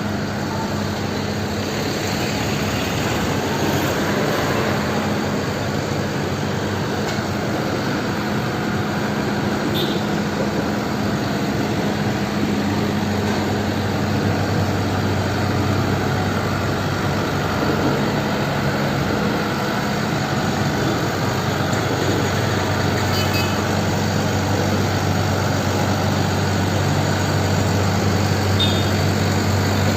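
Motorcycle engine running at a steady, low hum while riding, mixed with road and wind noise and surrounding traffic.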